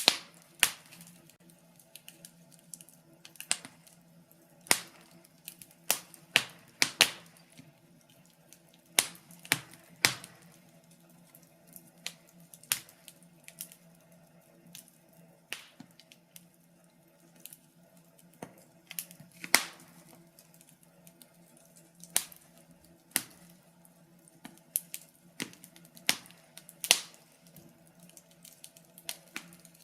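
Wood fire in a fireplace crackling, with irregular sharp pops and snaps of varying loudness, a few louder cracks every couple of seconds, over a faint steady hum.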